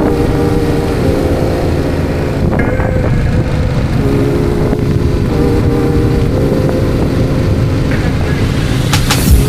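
Motorcycle on the move: a steady engine and wind rumble, with background music under it and a few sharp clicks near the end.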